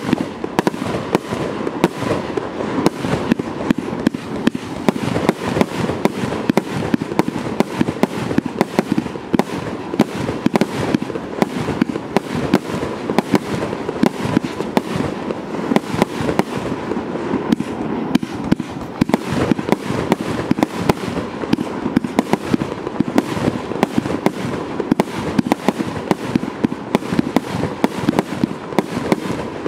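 A 30 mm consumer fireworks battery (cake) firing its shots in rapid succession: a dense, unbroken stream of sharp bangs and pops, a few a second, with no let-up.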